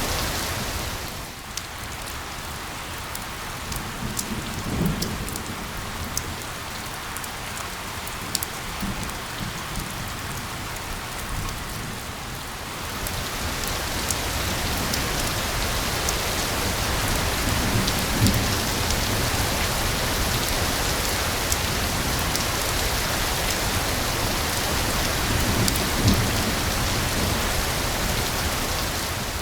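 Steady rain falling, with sharp ticks of individual drops; it is softer at first and grows heavier about halfway through. Three short low rumbles of thunder come through the rain.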